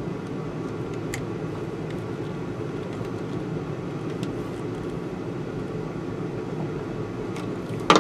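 A steady low drone with a few faint clicks, and a short, loud metallic clatter near the end, as of small tools or parts being handled.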